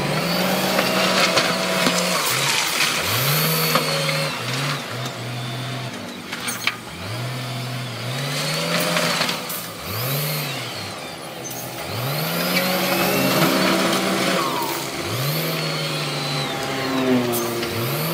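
Diesel engines of heavy earthmoving machines revving up under load and easing off again, over and over, with rattling and clatter over them.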